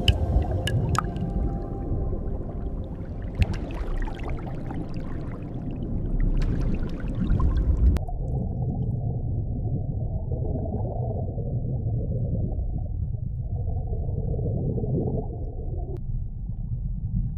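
Underwater water ambience: a steady low rumble with gurgling and a few clicks and tones. About eight seconds in it turns abruptly muffled, with no highs left.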